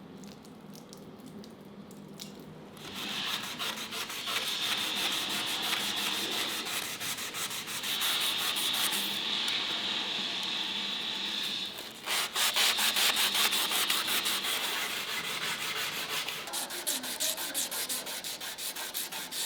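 Rapid back-and-forth sanding strokes on the steel of a katana blade made from suspension-spring steel. The rubbing starts about three seconds in, pauses briefly past the middle, and goes on again.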